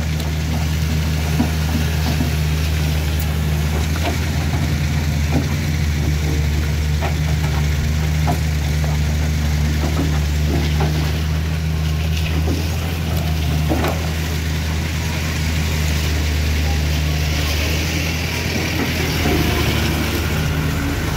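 A vehicle engine idling steadily close by, a constant low hum with scattered faint clicks and knocks over it.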